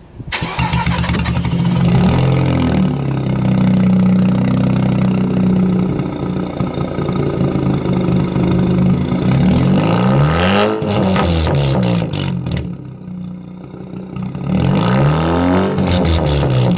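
Mazda RX-8's rotary engine through a straight-pipe exhaust, fired up suddenly and settling into a steady idle, then revved up and down several times about ten seconds in, dropping back, and revved again near the end.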